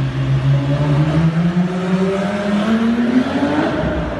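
Porsche Turbo S accelerating in a concrete parking garage. Its engine note holds steady, climbs evenly for about three seconds, then falls right at the end.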